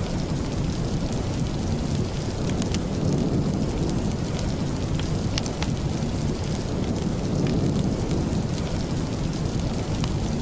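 Steady rain with a deep, even rumble, and scattered sharp ticks on top.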